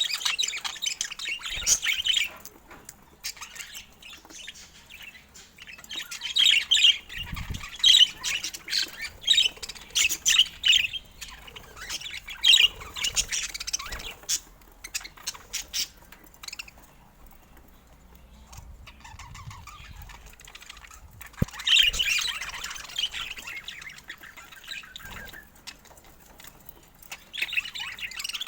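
Pet budgerigars chirping and chattering in bursts of a few seconds, with quieter stretches between.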